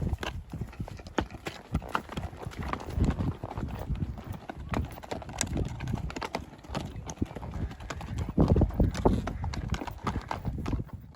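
Hoofbeats of a gaited Tennessee Walking Horse gelding: a steady run of hoof strikes that cuts off suddenly at the end.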